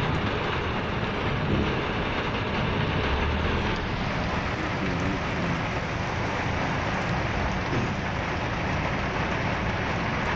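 Heavy rain and a moving car's road noise, heard from inside the car as one steady rush.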